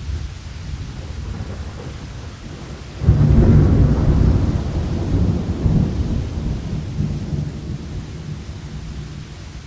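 Thunder rumbling low under steady rain; about three seconds in, a sudden louder peal breaks out and rolls on, slowly fading toward the end.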